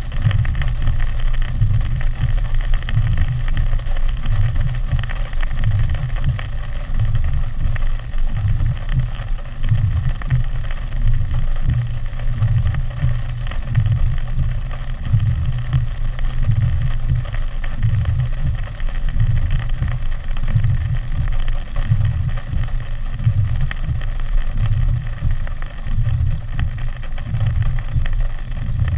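Hurricane wind and rain, with gusts buffeting the microphone in a low rumble that swells and falls every second or so over a steady hiss.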